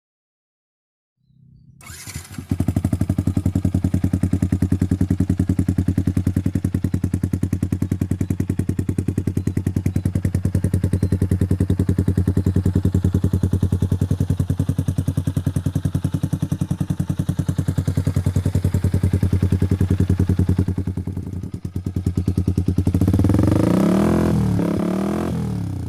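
Yamaha R15 v2's single-cylinder four-stroke engine through an aftermarket slip-on exhaust. It fires up about two seconds in and idles with an even, steady beat. Near the end it is revved up and eased off.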